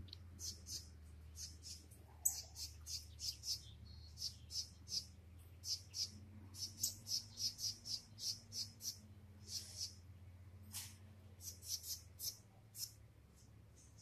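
Small birds giving short, high chirps over and over, often several in quick succession, over a faint steady low hum.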